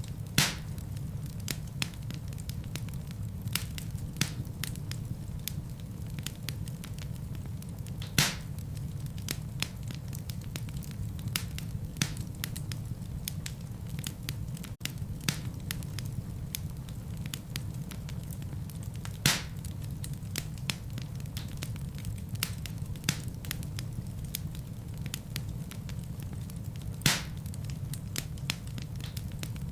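Wood fire crackling in a fireplace: a steady low rumble of flames under a constant scatter of small sharp crackles, with four louder pops spread through.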